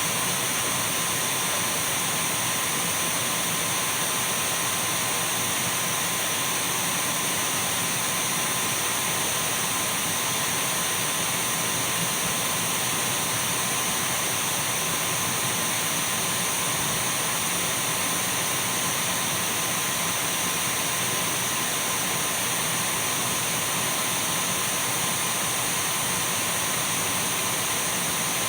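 Dyson V12 cordless stick vacuum cleaner running steadily: an even rushing noise with a thin high-pitched whine.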